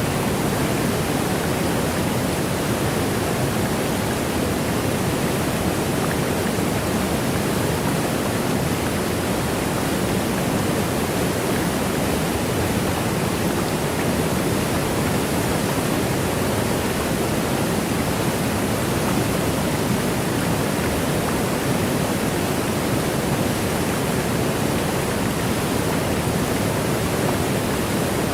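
Waterfall: a steady, unbroken rush of falling water, even throughout with no separate splashes, heaviest in the lower middle of the range.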